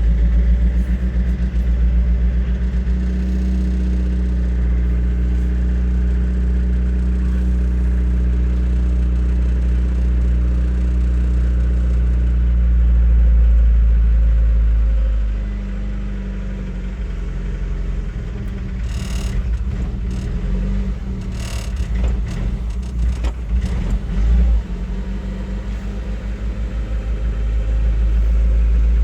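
Suzuki Samurai's four-cylinder engine idling after a cold start. It runs steadily, then drops in level about halfway through as the idle changes, with a few short clicks or knocks a little later.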